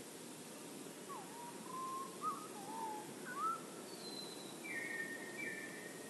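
A songbird singing a run of low, fluty whistled notes that slide up and down, followed by one thin high note and two short higher notes near the end, over a steady low hiss.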